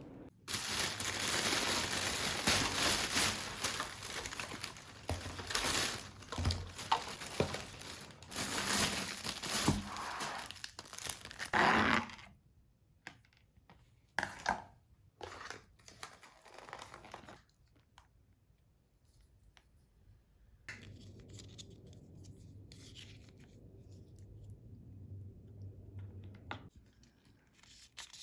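Packaging being torn and crinkled for about twelve seconds, then scattered small handling noises and a low steady hum for several seconds near the end.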